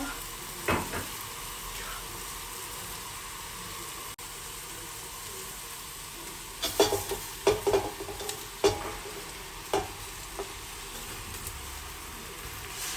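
Food sizzling steadily in a frying pan, with a sharp knock about a second in and a quick run of utensil knocks and clinks against the pan around the middle.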